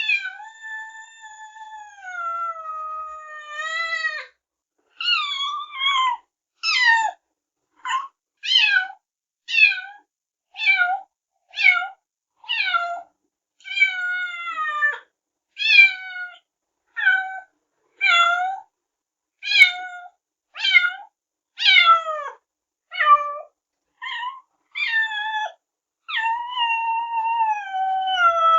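Kitten meowing: a long, falling meow, then a quick run of about twenty short, high meows at roughly one a second, and another long, drawn-out falling meow near the end.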